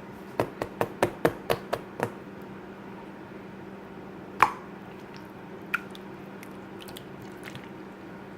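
A quick run of about eight sharp clicks in the first two seconds, then a single louder click a couple of seconds later and a few fainter ticks, over a steady low hum.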